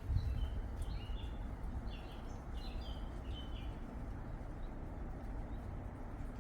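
A small bird chirping a quick run of short, high notes that stops about three and a half seconds in, over a steady low outdoor rumble.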